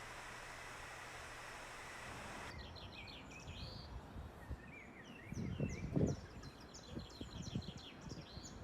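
A steady hiss, then after a sudden change about two and a half seconds in, small birds chirping repeatedly, with a few soft knocks mid-way.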